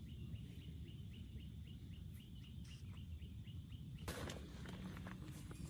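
A small bird chirping rapidly, short falling chirps about four or five a second, over a low steady rumble; a brief rustle about four seconds in.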